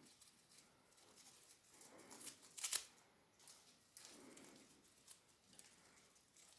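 Faint clicks, taps and rustling from a grey parrot handling the pieces of a food game, with a brief louder burst of crackling clicks about two and a half seconds in.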